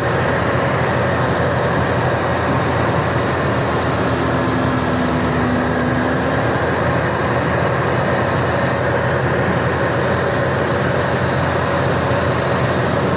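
1988 Jeep engine running steadily with loud noise.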